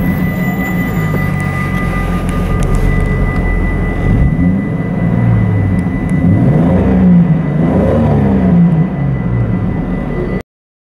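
Jeep Cherokee's 4.0-litre straight-six engine and exhaust heard from inside the cabin, running steadily at around 2000 rpm while the vehicle drives slowly in a low gear. The sound cuts off suddenly near the end.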